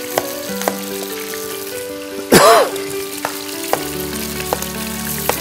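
Chicken pieces frying in hot oil, a steady sizzling hiss, with a few sharp knife taps on a cutting board. A brief loud burst about two seconds in is the loudest moment.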